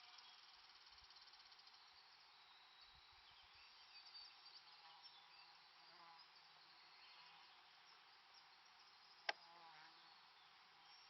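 Faint lakeside ambience of insects buzzing and trilling, with a few brief chirps. One sharp click stands out about nine seconds in.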